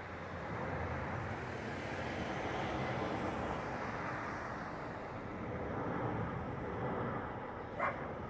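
Steady aircraft noise, a constant rumble and rushing hiss during a landing, with one short, sharp sound near the end.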